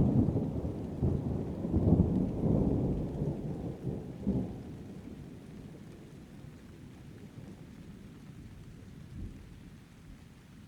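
A thunderclap at the start, then thunder rumbling in several rolls for about four and a half seconds before dying away. Rain goes on steadily underneath.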